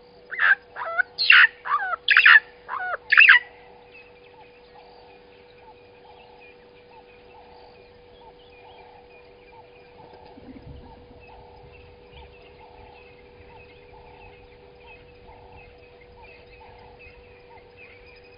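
A bird gives a rapid series of loud, harsh calls over the first three seconds or so. After that come fainter calls repeating about twice a second over a steady hum.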